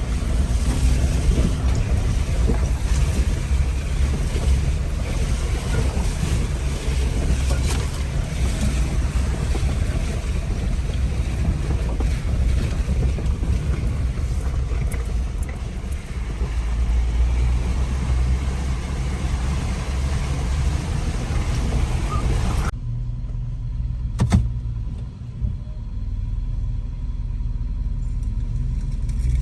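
Jeep Wrangler driving a dirt trail: a steady low rumble of engine and tyres under a broad hiss. About 23 seconds in, the hiss cuts off abruptly, leaving only the low rumble, and a single knock follows a second later.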